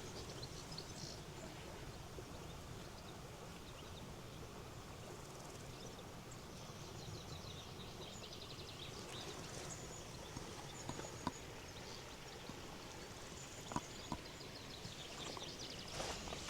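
Faint steady rush of a flowing river with small birds chirping and trilling over it through the middle stretch. A few light, sharp clicks come near the end.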